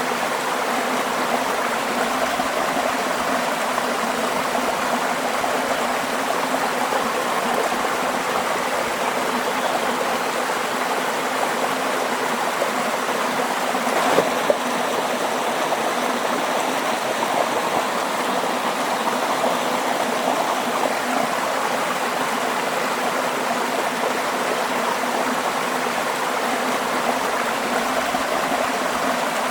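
Waterfall rushing steadily, an even wash of falling and splashing water. A single brief click is heard about halfway through.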